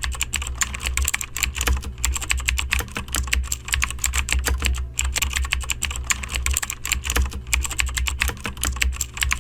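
Rapid, continuous typing on a computer keyboard, many keystrokes a second, over a low steady hum.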